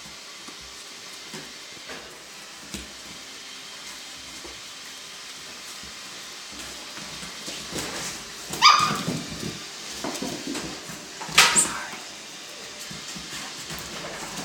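Alaskan Klee Kai puppies whimpering and yipping, with two louder high-pitched yelps about nine and eleven and a half seconds in.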